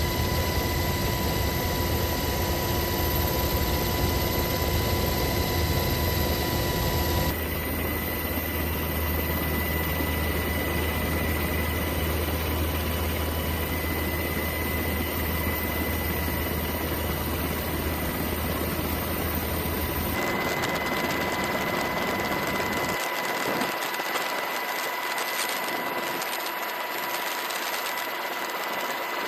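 Steady engine-like drone with a constant high whine over a low hum. It changes abruptly twice, about a third of the way in and again about two-thirds in, where the low hum falls away.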